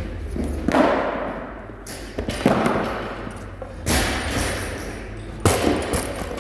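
Four heavy thuds of workout equipment hitting the floor, one about every one and a half seconds, each ringing out briefly.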